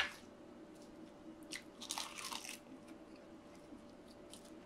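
Crisp roasted seaweed (gim) wrapped around rice crunching as it is bitten and chewed. There is a sharp crackle at the start and a quick cluster of crunches about two seconds in.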